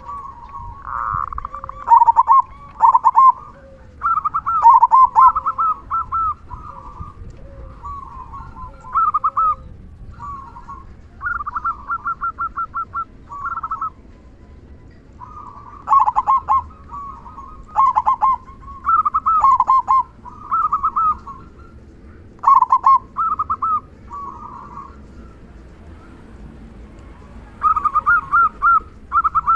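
Zebra dove (perkutut) cooing: phrases of rapid stuttering coo notes, repeated every second or two with short pauses between bouts.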